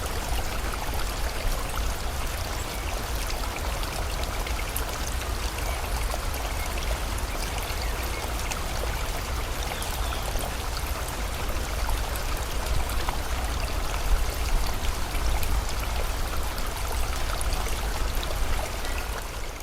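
Steady rush of a flowing stream, with scattered small drips, fading out near the end.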